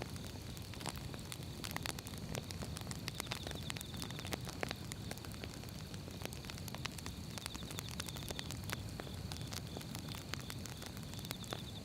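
Firewood burning with a steady low rumble and frequent irregular sharp crackles and pops. A faint high trill sounds in the background now and then.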